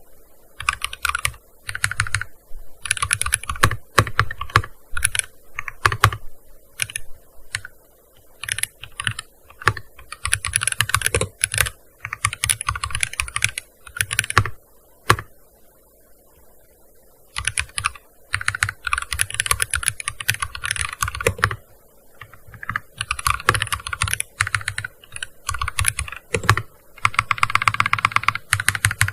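Typing on a gaming keyboard: bursts of rapid keystroke clicks separated by short pauses, with a longer lull around the middle and a very fast, even run of clicks near the end.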